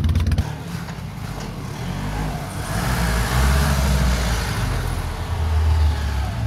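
Harley-Davidson motorcycle's V-twin engine running, cut off about half a second in; then the engines of old sedans running as the cars drive slowly past one after another, swelling louder near the middle and end.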